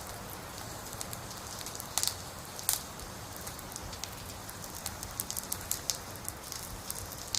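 Heavy rain falling: a steady hiss with scattered sharp ticks of drops striking hard surfaces.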